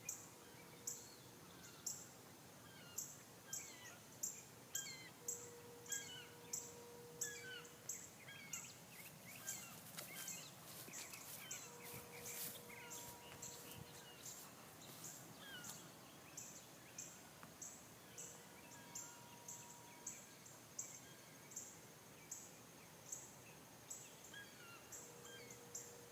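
Quiet outdoor ambience with faint, short, high bird chirps repeating about twice a second, and a few brief falling chirps.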